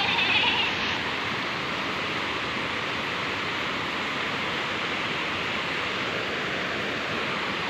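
Waterfall rushing: a steady, even roar of falling water. A short higher-pitched sound rises over it in the first second.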